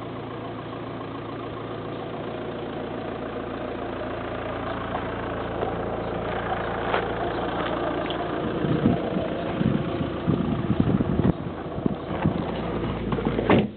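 Car engine running at low speed with a steady hum that slowly grows louder. From about eight seconds in, irregular low rumbling and bumps come in, and they stop suddenly near the end.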